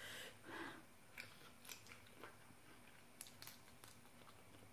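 Faint chewing of spicy papaya salad with raw shrimp: soft, scattered mouth clicks and crunches. There are two short breathy sounds in the first second.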